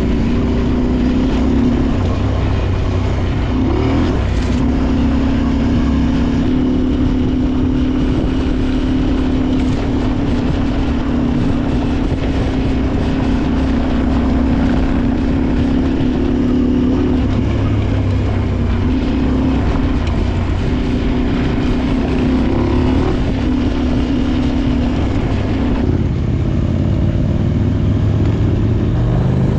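Adventure motorcycle engine running under way, its pitch holding steady for stretches and shifting as the rider changes speed, with wind noise over it. The revs rise near the end.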